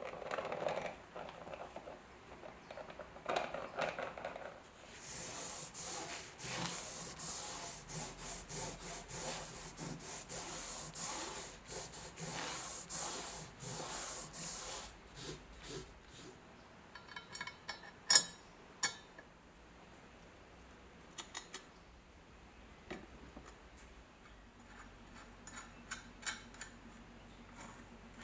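Hand rubbing and abrasive strokes on the steel bayonet: a quick back-and-forth run of hissing strokes through the middle, then scattered light metallic clicks with one sharp clink about eighteen seconds in.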